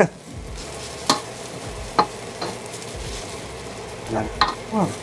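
Rice frying with a steady sizzle in a stainless steel wok as a wooden spoon stirs and scrapes it, with a few sharp knocks of the spoon against the pan.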